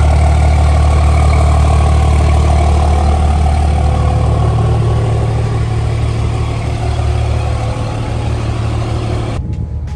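Large truck engine running loudly at a steady speed. Near the end the sound drops abruptly, leaving a lower rumble.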